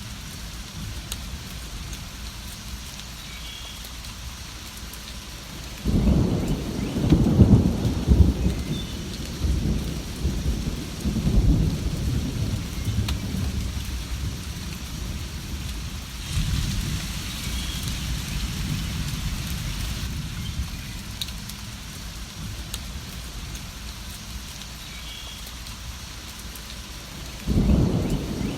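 Steady rain with rolling thunder. A long low rumble of thunder starts about six seconds in, a softer one follows in the middle, and another begins near the end.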